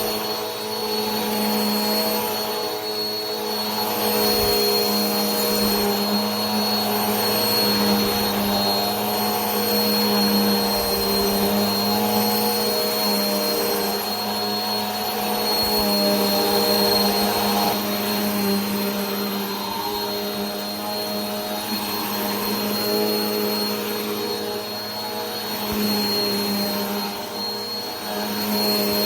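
Vacuum cleaner running steadily: a continuous motor hum with a high whine over a rush of air, its loudness wavering slightly.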